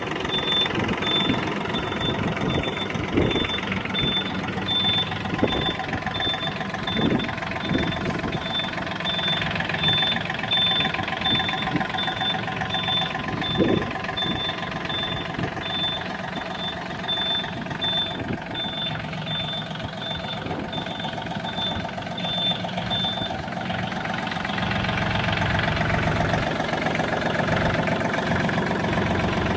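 Yanmar EF222 tractor's diesel engine running steadily, with a high-pitched beep repeating about twice a second. The beeping stops about three-quarters of the way through, and the engine then gets louder near the end.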